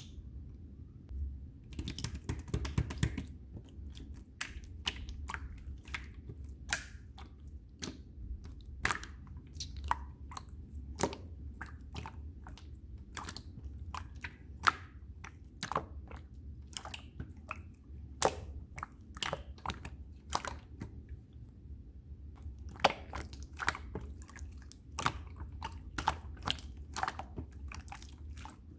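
Clear slime being pressed, stretched and poked by hand, giving irregular sticky clicks and pops, with a quick flurry of them near the start.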